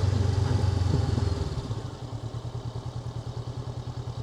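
Honda NX500's parallel-twin engine running under way, louder for about the first second and a half, then easing to a lower, steady note.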